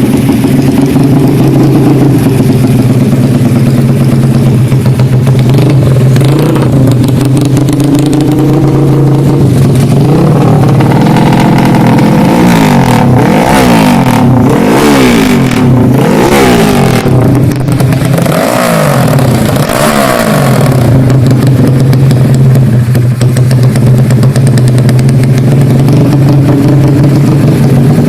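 Honda Karisma single-cylinder four-stroke engine, bored to 160 cc with a PWK 33 carburettor, idling steadily, then revved in a run of throttle blips roughly halfway through before dropping back to idle.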